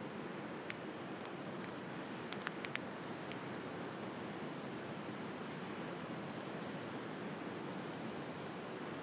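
Wood fire crackling, with a few sharp pops in the first three or four seconds, over a steady wash of sea surf.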